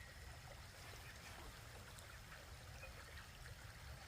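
Near silence: faint steady background hiss over a low rumble, with a few scattered faint ticks.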